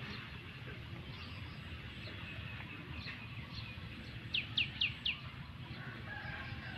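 Birds calling: faint scattered chirps, then a run of four quick chirps, each falling in pitch, about four seconds in.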